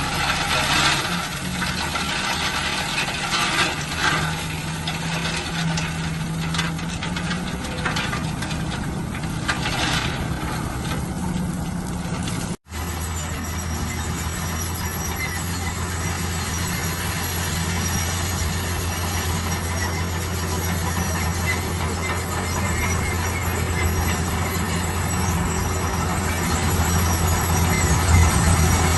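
Heavy construction machinery running: continuous diesel engine and mechanical working noise. About halfway through it cuts off abruptly and gives way to a steadier, deep engine drone.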